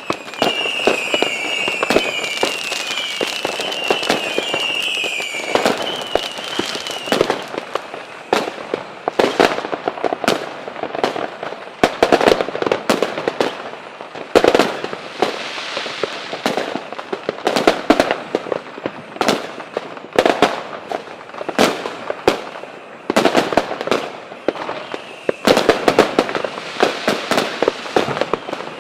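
Fireworks going off in a display: many sharp cracks and bangs in quick succession. A wavering high-pitched whistle sounds over the first seven seconds or so.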